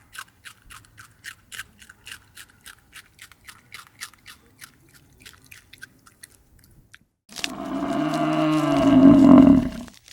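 An animal chewing with rhythmic crunching, about four bites a second. After about seven seconds the chewing stops and a cow gives one long, loud moo.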